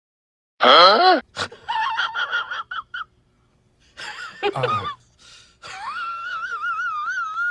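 An animal's high-pitched cries: a loud sweeping yelp, a run of short whimpers, then one long wavering whine.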